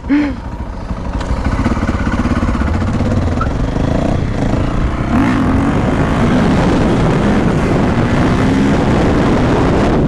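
Dirt bike engine pulling away and revving up repeatedly through the gears, under a loud, steady rush of wind over the helmet-mounted microphone.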